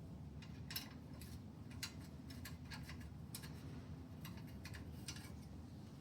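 Light metallic clicks of a 5 mm Allen key turning and catching in the bolt heads of a motorcycle exhaust end cap, irregularly spaced, over a low steady hum.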